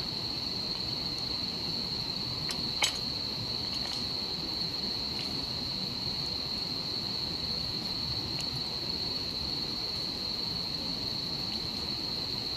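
Insects, crickets, singing a steady high-pitched trill over a low, even rush of stream water. A single sharp crackle from the campfire about three seconds in, with a few fainter pops now and then.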